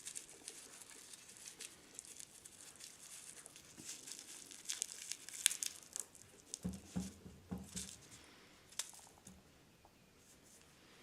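Faint crinkling and crackling of a thin cigarette rolling paper and crumbled dry tobacco leaf being handled while rolling a cigarette by hand, busiest about halfway through, with a few soft knocks a little later.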